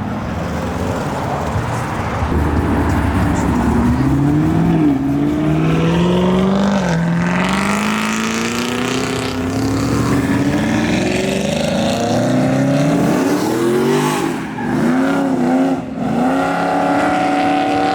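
A high-performance car engine accelerating hard, its pitch climbing and dropping back at each gear change. Near the end it gives a few quick revs up and down.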